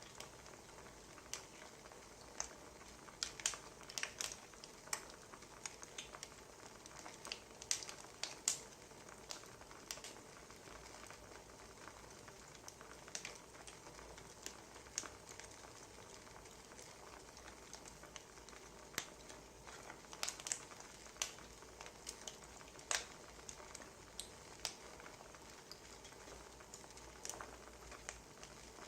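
Wood fire crackling: irregular sharp pops and snaps, some in quick clusters, over a faint steady hiss.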